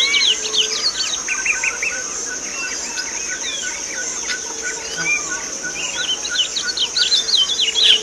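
Curió (chestnut-bellied seed finch) singing a long song of quick runs of notes, with a dense opening phrase repeated near the end, over a steady high insect buzz.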